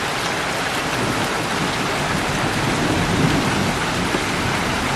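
Heavy rain falling steadily in a thunderstorm, with a low rumble of thunder rising about halfway through.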